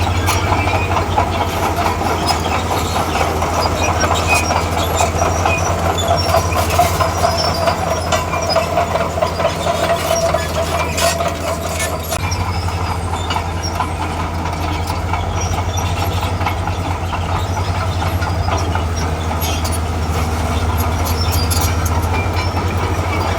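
Diesel engine of a tracked earthmoving machine running steadily, with continuous clanking and rattling of steel tracks and debris. A higher whine rides over it in the first half and stops about twelve seconds in.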